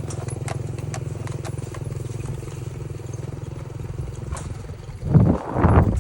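A small vehicle engine running steadily, with scattered clicks and knocks over it. It eases off, and about a second before the end come two loud, rough bursts.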